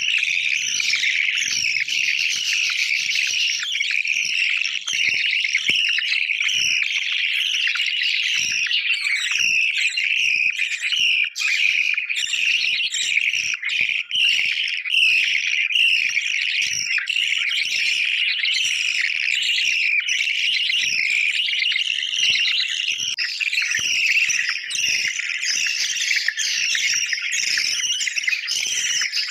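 Budgerigars chirping and chattering without pause, many short high calls overlapping.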